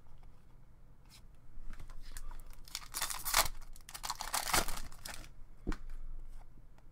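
Trading-card packaging being handled: plastic and foil rustling and crinkling, with two louder tearing, crackling stretches about three and four and a half seconds in, among light clicks.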